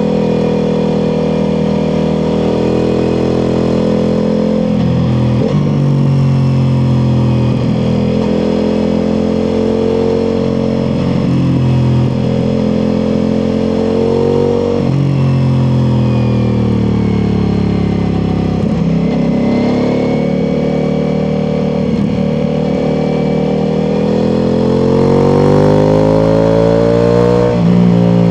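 Ducati Multistrada V4 Pikes Peak's V4 engine through an Akrapovič exhaust on the move, its pitch rising and falling as the rider accelerates and eases off, with several quick gear changes. Near the end it pulls up through the revs in one long rise, then shifts.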